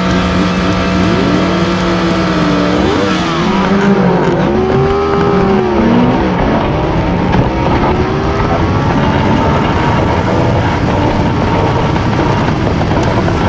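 Sport motorcycle inline-four engines at full throttle in a drag race: a steady high-revving note for the first few seconds, then pitch sweeping up and dropping back repeatedly as the bikes shift through the gears.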